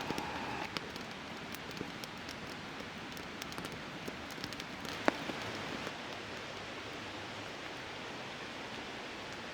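Steady rain falling on a tarp: an even hiss with scattered light ticks of drops and one sharper tap about five seconds in, the ticks dying away after about six seconds.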